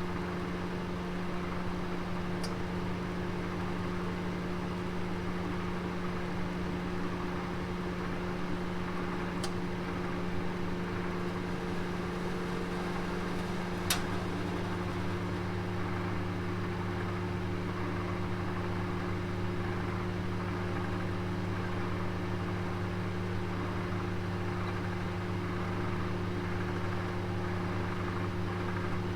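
Oven running steadily: a constant hum and whirr, with three faint ticks, the sharpest about halfway through.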